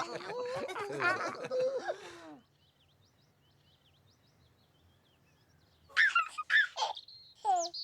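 High cartoon-style Teletubby voices giggling and babbling, then a pause with faint birdsong chirps. Near the end come a few loud, high sliding vocal calls.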